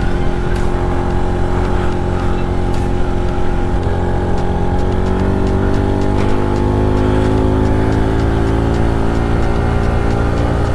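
Motorcycle engine running under way with a heavy low rumble, its pitch climbing gently a few seconds in as it accelerates.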